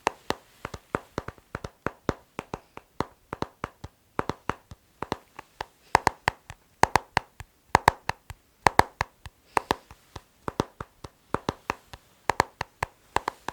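Rhythmic tapping on a hard object, about five sharp taps a second, with louder accented taps in between softer ones.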